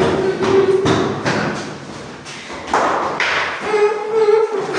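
Several dull thumps of footsteps, a second or so apart. A short hummed voice tone is heard near the start and again near the end.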